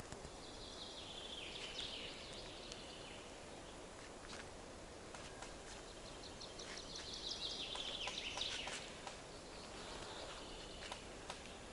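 A songbird singing: two phrases of rapid notes that fall in pitch, each about two and a half seconds long, over faint background noise.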